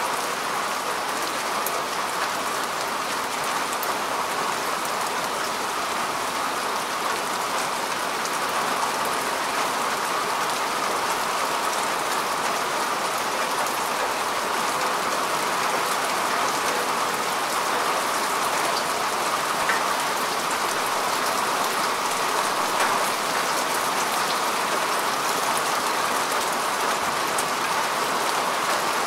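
Steady rain falling on earth and grass: an even patter with scattered individual drop ticks.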